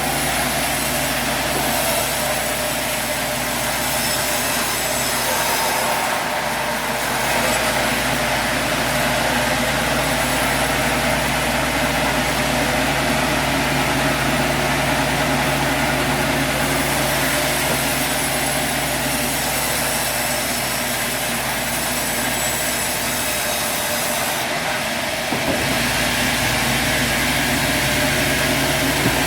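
Sawmill machinery running with a steady motor hum and dense mechanical noise, easing off briefly twice before picking up again.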